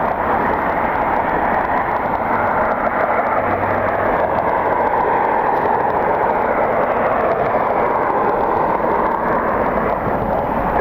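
Jet aircraft engines, a steady loud rushing noise with a faint tone that slowly wavers.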